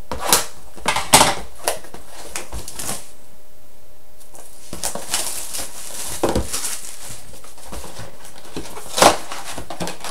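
A sealed trading-card box being opened and its packs handled: scattered cardboard and wrapper rustles, taps and clicks, the loudest about nine seconds in, over a steady hiss.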